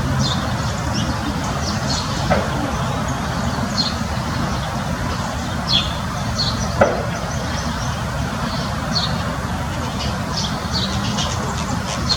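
Small birds chirping over a steady low rumble. Many short high chirps come throughout, and twice a louder call falls sharply in pitch.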